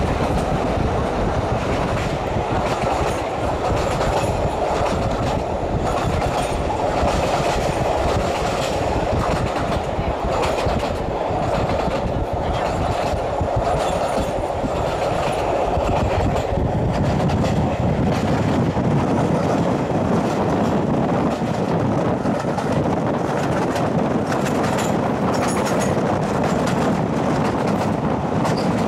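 Passenger coaches of a steam-hauled train running at speed, a steady rumble of wheels on rails with the clickety-clack of rail joints, heard from an open carriage window.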